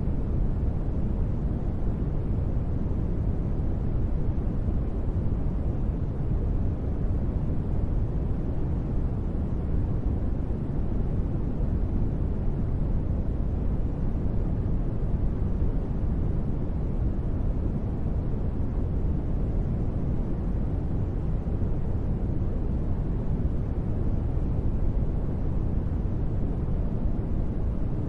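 Steady noise-bed ambience, a deep, even hiss weighted toward the low end, with no changes or events.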